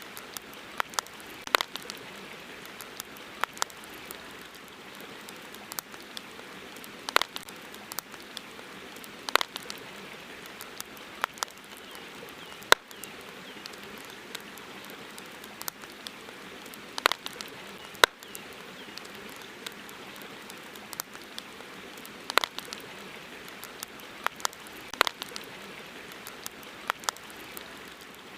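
Campfire crackling, with sharp pops at irregular intervals, a few much louder than the rest, over a steady hiss.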